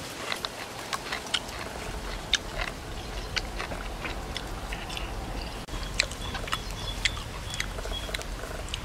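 Chewing and biting into grilled pork offal: a scatter of short, sharp crunchy clicks and mouth sounds. A few short high chirps sound in the background in the second half.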